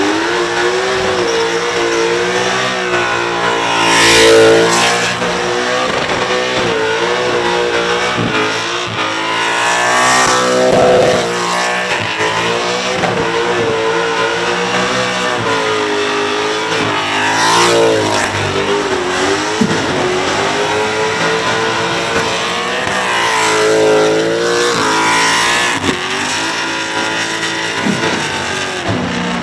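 Supercharged Holden Commodore engine held at high revs through a burnout, the revs rising and falling in repeated swells while the rear tyres spin and smoke.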